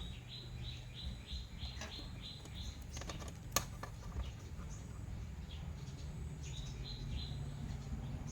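A bird chirping in rapid runs of short high chirps, about four a second, with a single sharp click about halfway through and a low hum underneath.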